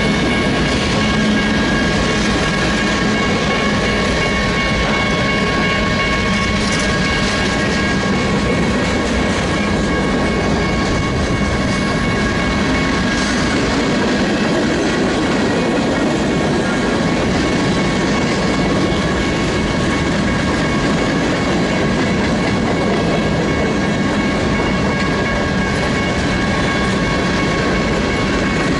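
A Union Pacific freight train rolling steadily past, its wheels clacking over the rail joints, with a constant high-pitched squeal over the rumble of the cars.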